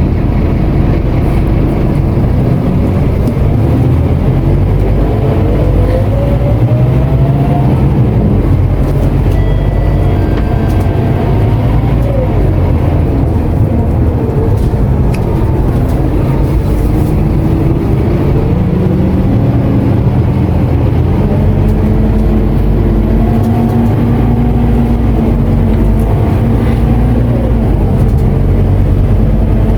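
Scania K230UB city bus heard from inside the cabin: its diesel engine and automatic gearbox pulling the bus along, the engine note rising as it accelerates about four seconds in and again near the end, and dropping back in between.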